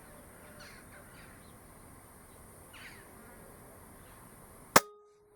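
A single shot from an Air Arms S410 5.5 mm PCP air rifle, a sharp crack near the end. Before it, faint short falling bird chirps.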